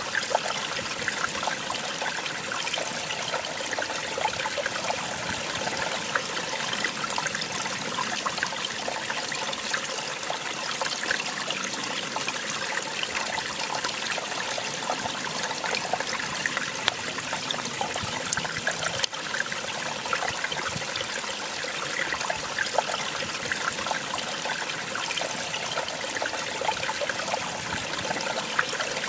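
Small waterfall: water splashing and trickling steadily.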